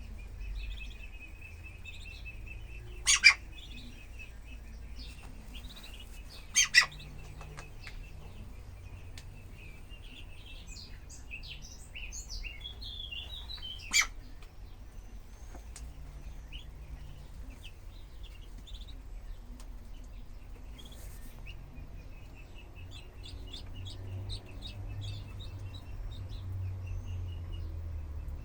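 Ducklings peeping: a steady stream of quick, high cheeps that grows busier near the end. Three louder, sharp clicks cut through it, the first two each doubled.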